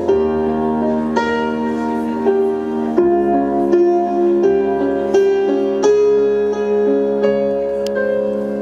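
Live band music in an instrumental break between vocal lines, led by piano chords struck about once a second and left ringing.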